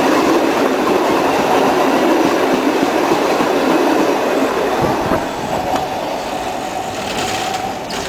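Sóller railway train carriages rumbling and clattering past close alongside. The noise drops about five seconds in as the last carriage goes by, leaving a quieter run with a faint wheel squeal.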